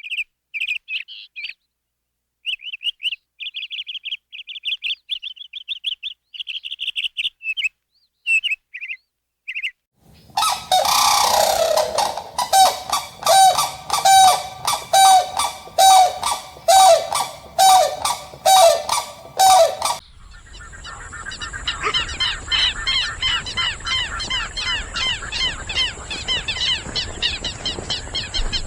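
Bird calls in three parts. First come short, high chirps in quick runs. About ten seconds in they change to loud honking calls repeated about twice a second. About twenty seconds in, a flock of many birds chirps all at once over a steady hiss.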